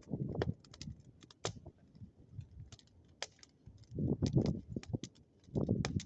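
Bonfire of burning wood crackling, with many sharp, irregular snaps and pops. It is joined by a few low rumbling swells near the start, about four seconds in and near the end.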